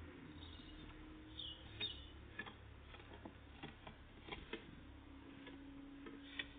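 Tits at a peanut feeder: irregular light taps and clicks of pecking at the feeder, with a couple of short high chirps about one and a half seconds in.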